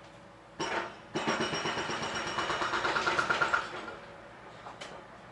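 Handheld power tool run in two goes: a short blip just after half a second, then a steady run of about two and a half seconds with a fast rattling rhythm, driving or drilling at the heater's mounting plate.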